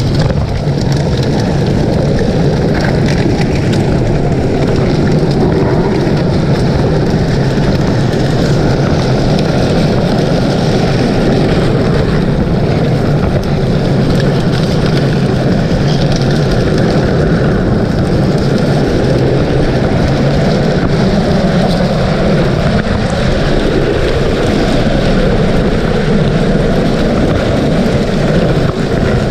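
Steady, loud rumble of a vehicle under way.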